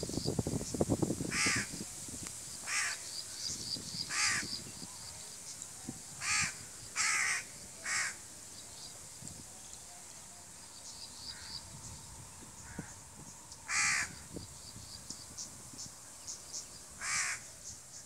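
A bird calling in short, rough calls, about eight of them at irregular spacing, over a faint, quick, high chirping. A low rustle fades out within the first second.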